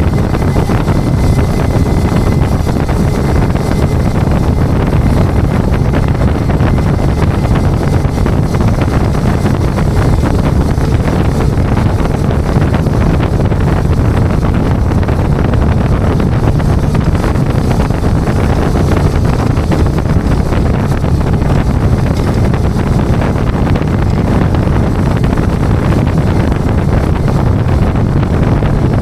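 Tow truck driving at a steady speed: a constant engine and road noise, heaviest in the low end, with wind buffeting the microphone.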